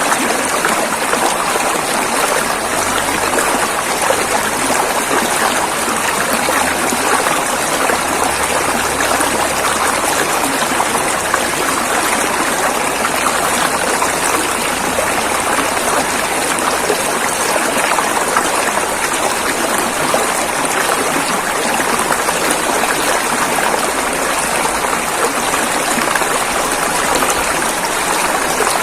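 Rushing river water flowing steadily over rocks, a continuous splashing rush without pause.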